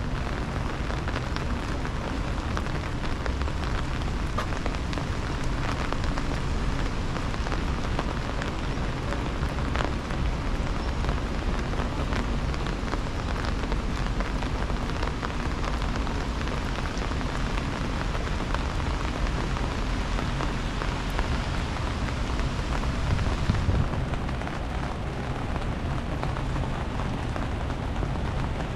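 Steady rain falling, a dense patter of drops over a low rumble; near the end the patter turns duller as the highest sounds drop away.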